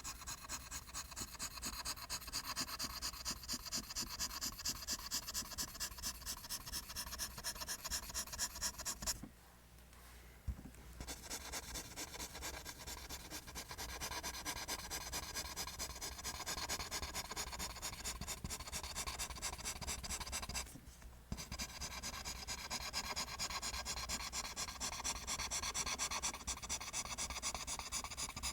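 Pencil drawing lines on paper: quick, evenly repeated scratching strokes, broken by two short pauses, about nine seconds in and about twenty-one seconds in.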